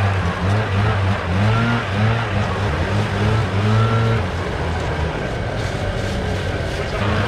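A gas engine running under changing load, its pitch rising and falling about once a second, then settling steadier and a little quieter near the end.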